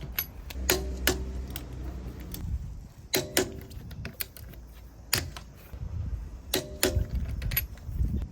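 Sharp metal clinks and clanks of wheel-changing tools and hardware: about ten irregular strikes, each with a short ring. A low hum runs under the first two seconds.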